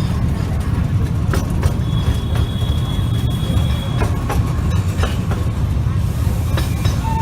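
Narrow-gauge train running: a steady low rumble with irregular clicks of wheels over rail joints, and a thin high squeal for about two seconds in the middle.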